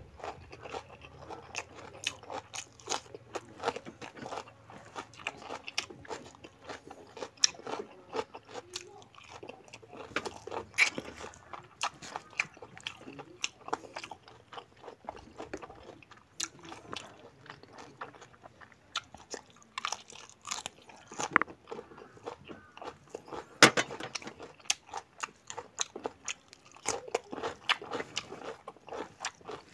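Close-miked chewing and biting as a man eats pork curry and rice by hand: a dense, irregular run of short crunchy, wet clicks.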